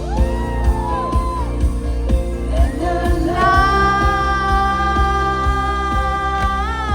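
Live pop concert music heard through a fan's recording: a male singer over the band, with short gliding phrases early on, then one long held note through the second half that bends just before it ends.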